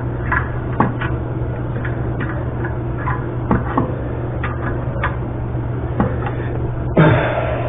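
Scattered light clicks and taps of tools and fittings being handled, irregular and about a second apart, over a steady low hum, with a short louder rustle about seven seconds in.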